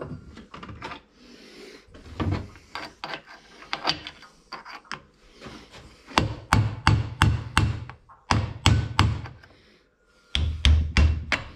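Hammer striking metal in runs of quick, sharp blows, about three a second, with lighter tapping and scraping before them: knocking pins and plugs out of a tractor gear-shift cover.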